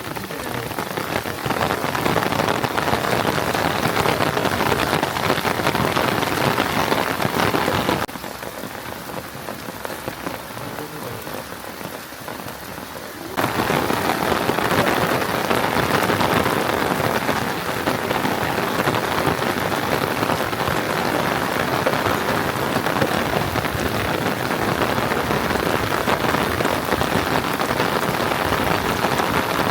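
Heavy rain falling steadily, a dense hiss of drops on a surface. It drops suddenly to a softer level for about five seconds, a third of the way in, then comes back just as loud.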